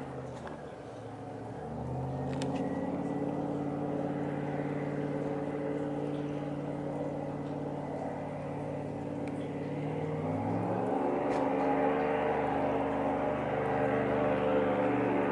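Airboat engine and propeller running. Its pitch rises about two seconds in and holds steady, then rises again and grows louder about ten seconds in.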